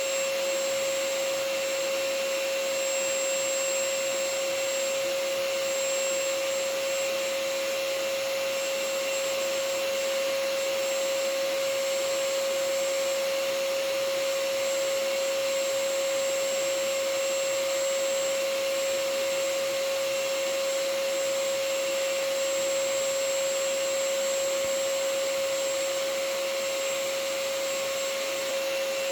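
Vacuum cleaner running steadily, a constant rushing hiss with a steady whine in it. It is played as white noise for sleeping babies.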